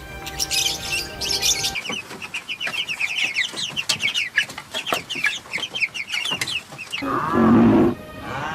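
Birds chirping in a dense run of quick, falling chirps. Near the end comes a louder call that rises and falls in pitch.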